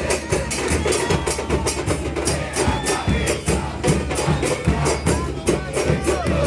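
Percussion band of drums and clattering strikes playing a fast, steady rhythm, music-like.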